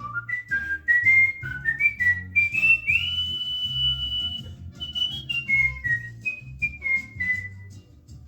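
A cockatiel whistling a tune: a run of clear, stepped whistled notes rising to one long held high note about three seconds in, then stepping back down. A low, regular pulse runs underneath.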